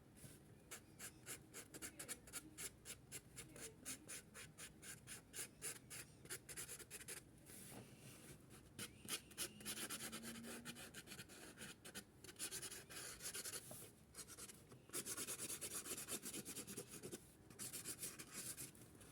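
Felt marker tip scratching on paper in quick hatching strokes, faint, about three or four strokes a second at first, then longer continuous back-and-forth scribbling.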